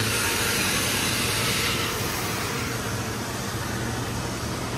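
High-pressure rinse water spraying against a car in a tunnel car wash, heard from inside the cabin: a steady hiss that eases off about two seconds in, over a steady low hum.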